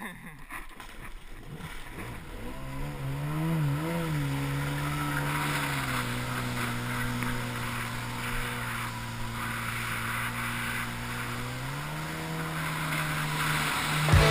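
Yamaha Super Jet stand-up jet ski engine coming up on the throttle, with a couple of quick blips in revs. It settles into steady running while water spray hisses under the hull, then picks up revs near the end.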